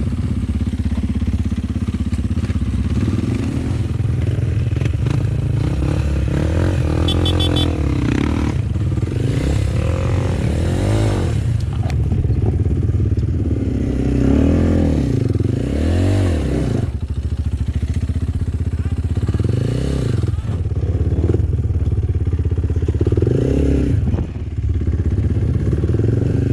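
Off-road enduro motorcycle engine on a trail, its revs rising and falling again and again as the rider works the throttle, with clattering from the bike.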